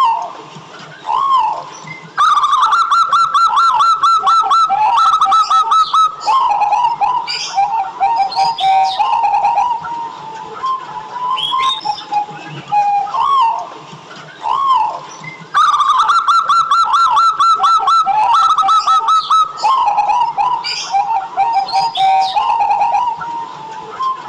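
Zebra dove (perkutut) song: a long run of quick, rhythmic coos followed by lower coos, the whole phrase coming twice, about 13 seconds apart, with short higher chirps scattered between. It is a lively singing dove's song of the kind used as a lure recording to set other perkutut singing.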